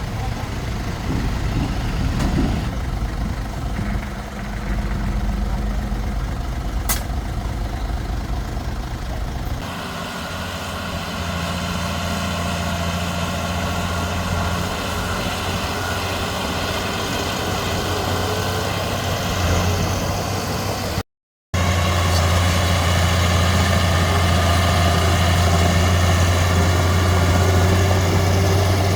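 Heavy diesel earthmoving machinery running steadily, from a bulldozer and dump trucks. The sound is a deep rumble that turns into a steady hum about ten seconds in. Past the middle it cuts out for a moment, then comes back steadier and louder.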